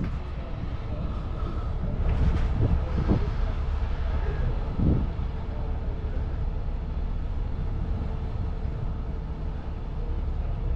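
Steady low rumble of an idling vehicle engine, with a faint steady hum over it.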